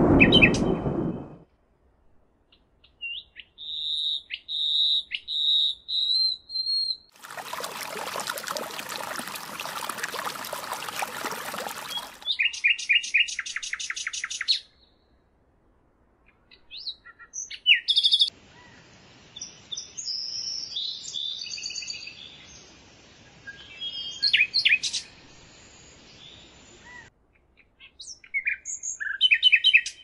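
Chirps, whistles and quick trills from several small birds, cut together in short takes with brief silences between them. A thunder rumble fades out in the first second or so, and a steady rushing noise fills about five seconds in the first half.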